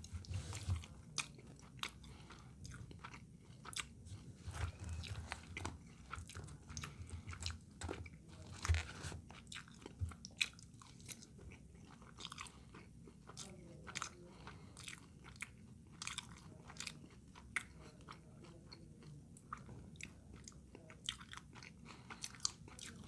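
A person chewing a mouthful of food close to the microphone, with irregular mouth clicks and smacks. The food is a trash plate of burger, fries and macaroni salad.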